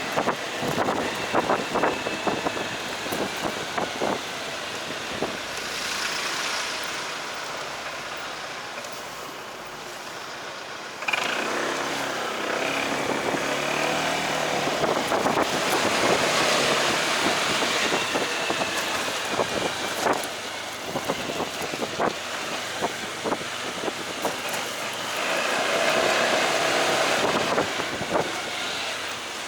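Delivery motorcycle being ridden through traffic: steady road and engine noise with wind on the microphone, getting louder about eleven seconds in.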